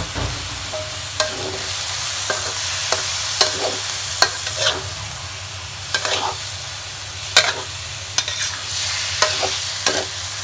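Marinated chicken and giblets sizzling in hot oil in a pan, with a steady hiss. A spatula stirs and scrapes the pan in irregular sharp clinks.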